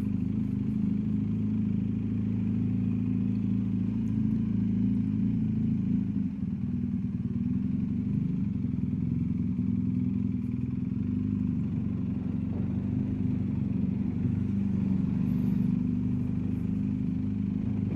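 BMW R1250GSA's boxer-twin engine running steadily at low, even speed while being ridden, with no revving.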